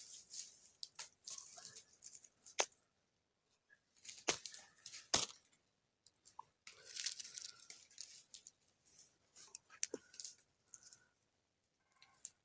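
Ferrocerium fire-steel rod being scraped with a striker in short scratchy strokes, repeated several times with a few sharp clicks between, trying to throw sparks onto tinder.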